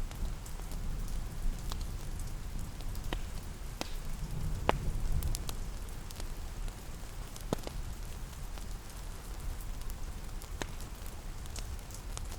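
Steady rain with a crackling fireplace: a continuous low wash of rain, with scattered sharp pops and snaps of burning wood, a few seconds apart, and a brief low swell about halfway through.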